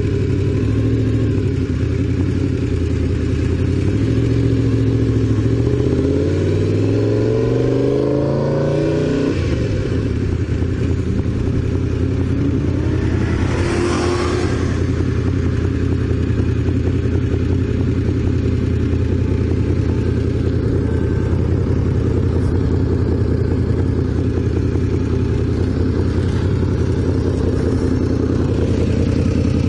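Honda VFR750's V4 engine running, climbing in pitch in steps for about nine seconds, then settling to a steady lower run. A brief whoosh comes about fourteen seconds in.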